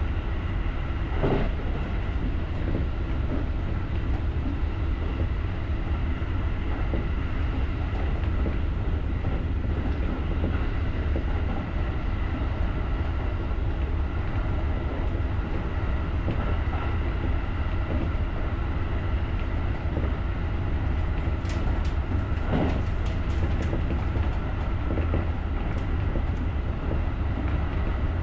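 JR rapid electric train running along the line: a steady low rumble with a steady hum of several tones over it. A few sharp knocks come through, one about a second in and a cluster about two-thirds of the way through.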